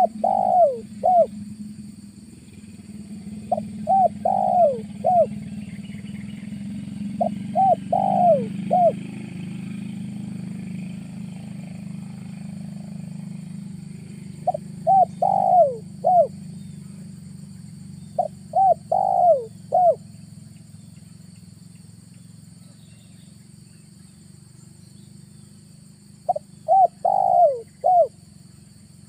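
Spotted dove cooing: six phrases, each of four or five arched coo notes, repeated every few seconds. A low steady hum lies underneath, swelling about a third of the way in and then fading.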